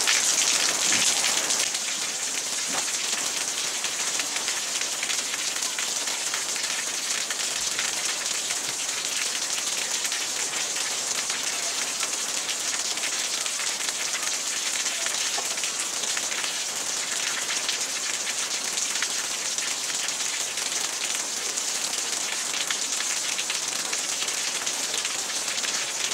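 Steady rain falling outside, an even hiss with no breaks.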